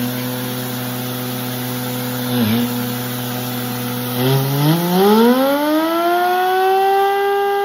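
An engine running steadily at a low, even idle with a brief dip about two and a half seconds in. It then revs up in a smooth rise in pitch over about two seconds and holds at the higher speed.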